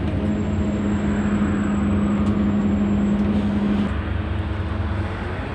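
Scania N230UD double-decker bus's five-cylinder diesel engine running, with a steady whine that drops away about four seconds in.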